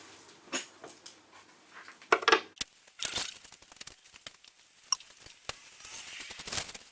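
Hand tools and small steel parts clicking and clinking as nuts are worked off engine studs, with a louder clatter a little after two seconds and scattered metallic knocks after it.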